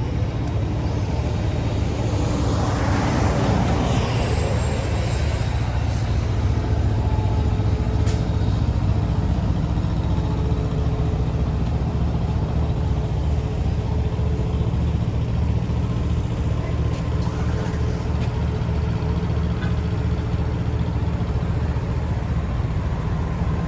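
Large diesel truck engine idling with a steady low rumble. A short hiss of air rises and fades about two to four seconds in.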